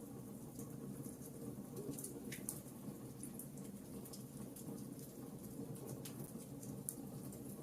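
Burning logs in a fireplace crackling: many small, sharp ticks and pops scattered irregularly over a soft, steady low rumble.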